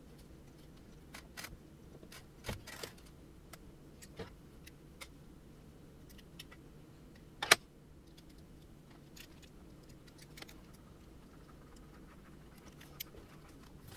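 Scattered light clicks and rattles of small 3D printer parts being handled and fitted during assembly, with one sharp, louder click about halfway through.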